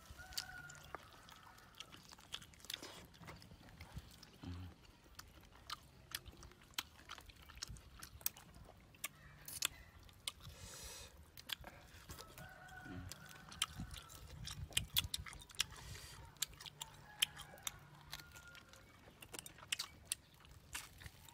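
Close chewing and biting on grilled duck meat eaten by hand: many short, sharp mouth clicks and smacks, coming thicker from the middle onward.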